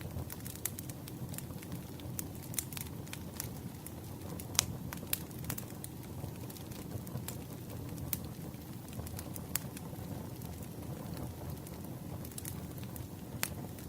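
Campfire burning: a steady low rumble of flames with scattered sharp crackles and pops, the loudest about four and a half seconds in.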